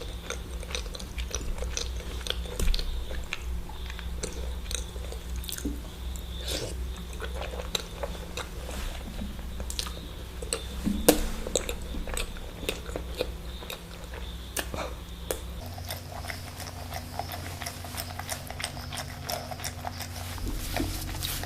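Close-miked chewing and biting of eggs during an eating challenge, with many short wet mouth clicks over a low steady hum.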